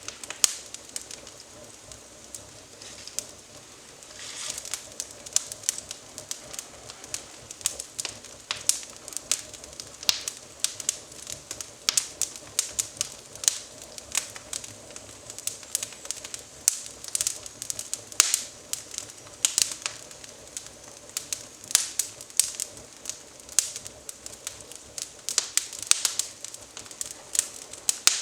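Twig fire in a fireplace crackling, with irregular sharp pops and snaps several times a second.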